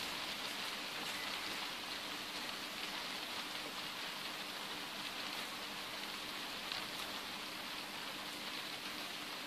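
Steady hiss of light rain on paving, with a few faint crackles from paper burning in a kettle barbecue.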